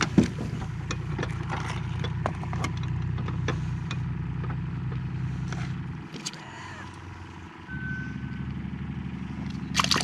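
An engine runs with a steady low hum, falls away about six seconds in and comes back at a different pitch near eight seconds. Light clicks and knocks come and go over it.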